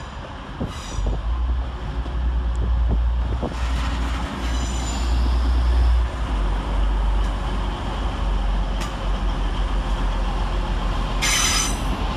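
Class 185 diesel multiple unit pulling into the platform under its Cummins diesel engines: a steady low rumble, with a few brief metallic squeals, the loudest near the end.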